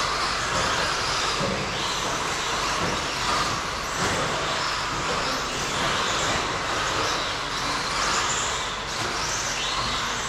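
Several radio-controlled stadium trucks racing, their electric motors whining and tyres hissing, the pitch rising and falling over and over as they speed up and slow down around the track.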